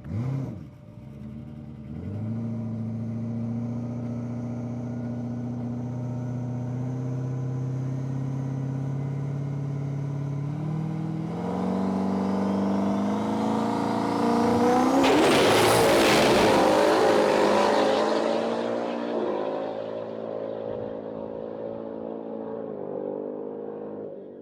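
Ford Mustang GT race car engine running hard, its note holding then climbing in pitch, with a loud rushing surge about fifteen seconds in that fades away.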